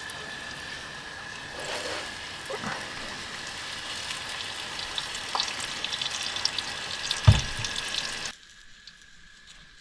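Breaded fish frying in hot oil in a pan: a steady crackling sizzle that grows fuller about a second and a half in. A single sharp thump comes a little after seven seconds, and the sizzle cuts off abruptly about a second later.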